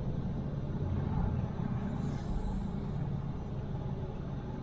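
Truck engine running with a steady low rumble, heard from inside the cab as the truck creeps around a tight turn.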